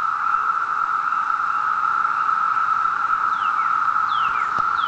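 Dense chorus of periodical cicadas from the 2013 Brood II emergence, a steady droning drone. From about three seconds in, a bird calls several times with short whistled notes that slide downward.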